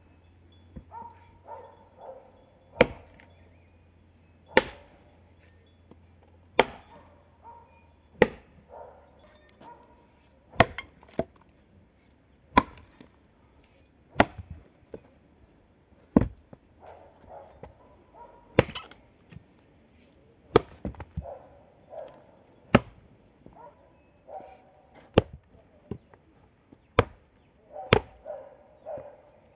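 Firewood being chopped: a sharp, loud chop about every two seconds, with lighter knocks of wood between the strokes.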